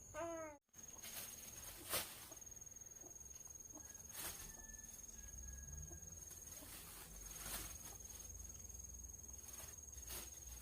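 A faint, steady, high insect trill with short breaks, with a few soft knocks or rustles about every two to three seconds.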